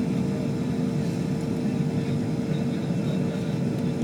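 Bombardier CRJ200 regional jet with its rear-mounted GE CF34 turbofans running: a steady rushing drone with one steady hum above it.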